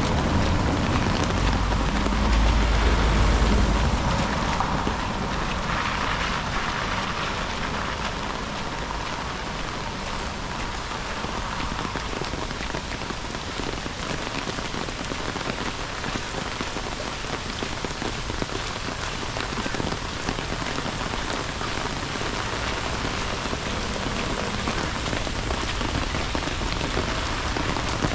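Steady rain falling close to the microphone, an even hiss of drops throughout, with a low rumble a couple of seconds in.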